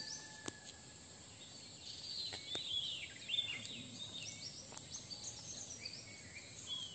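Birds chirping and calling in forest: many short whistled notes and quick pitch glides, busiest about two to five seconds in, over a faint background hiss. There is a single click about half a second in.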